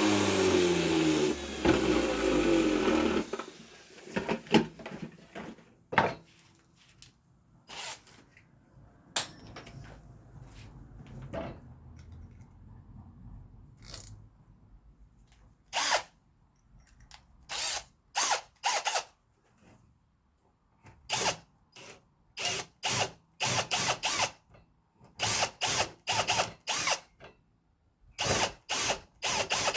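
A power tool's motor winding down, its pitch falling over the first three seconds. Then a drill is run in a string of short trigger bursts, about half a second each, in quick groups through the second half.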